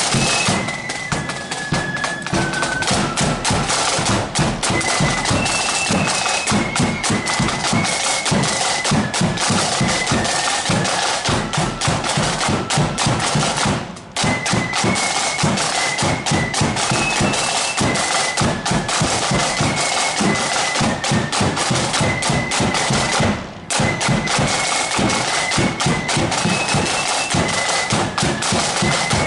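Marching flute band playing a tune: high flutes carry a stepping melody over rapid snare drumming and a bass drum. The music breaks off for a moment twice, about halfway through and again near the end.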